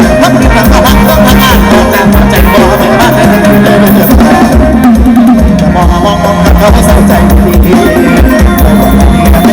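Loud music with a heavy bass beat and singing, played at full volume through a Thai parade sound truck's PA system while it is being tuned.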